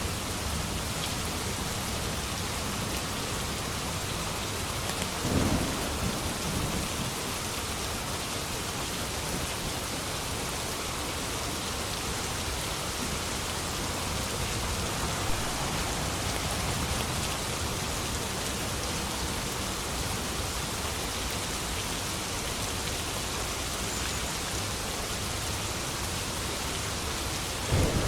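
Steady, heavy rain falling, with a brief low thunder rumble about five seconds in and another near the end.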